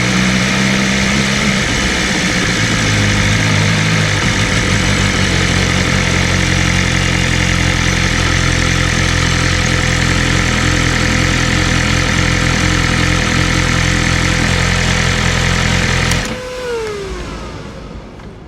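BMW M1000RR's inline-four engine idling steadily, its note shifting slightly a couple of times in the first few seconds. It cuts off suddenly near the end. A whine glides down in pitch and fades as something spins down.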